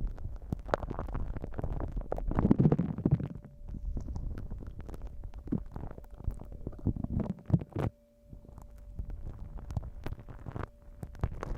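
Slime being squished and pressed against a binaural microphone: wet squelching with many small irregular crackles and pops, with a brief pause about eight seconds in.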